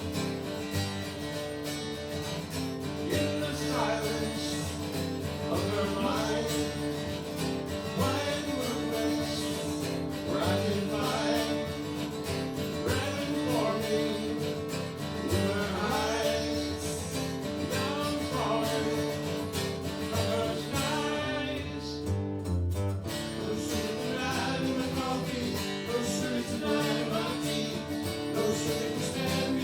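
Acoustic guitar music: strummed chords with a melody line gliding over them.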